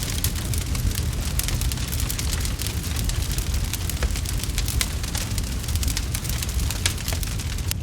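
Crackling wood fire in a fireplace: a dense run of small sharp pops and snaps over a steady low rumble.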